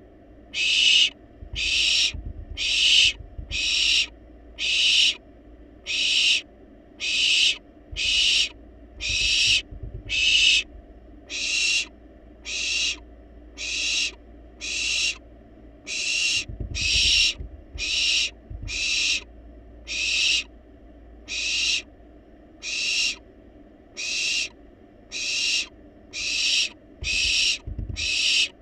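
Barn owl nestlings giving their food-begging calls: a long run of harsh, rasping hisses, roughly one a second. There are a few low bumps underneath.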